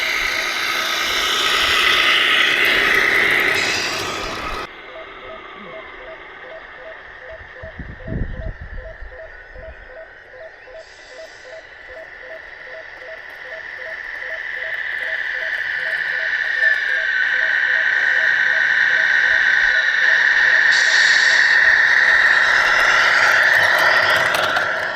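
Electric motor and gearbox of a radio-controlled scale construction vehicle whining steadily. The whine drops away abruptly about five seconds in, with a low thump a few seconds later, then builds back up over the second half.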